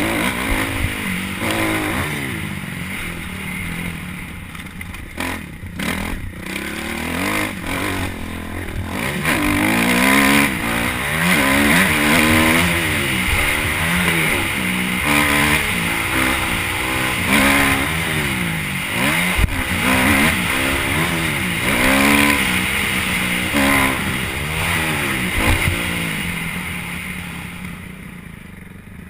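Motocross motorcycle engine revving up and down again and again as it is ridden around a track, fading away near the end.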